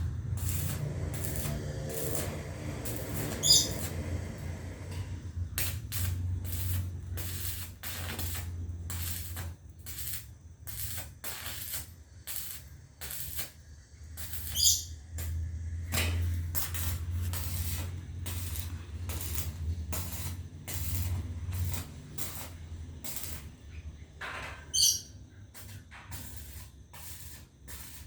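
A small bird chirps three short times, spread about ten seconds apart, over a steady low hum and many irregular sharp clicks.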